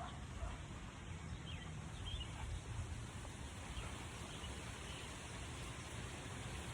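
Steady outdoor background noise with a low rumble and a few faint bird chirps in the first half.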